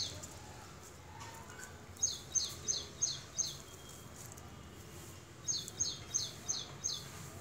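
A small bird calling in the background: two runs of five quick, high notes, each sliding down in pitch, the second run starting a couple of seconds after the first.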